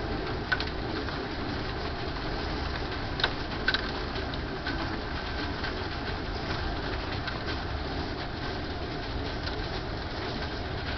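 Hail and rain falling on a deck: a steady downpour with scattered sharp clicks of hailstones striking, several of them in the first four seconds.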